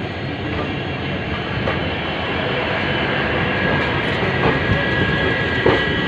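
Train running along the track: a steady rumble of wheels on rail with a few clacks over rail joints and a steady high-pitched tone that grows a little louder in the second half.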